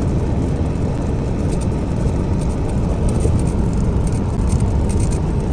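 Steady road and engine noise of a semi truck heard from inside the cab while driving.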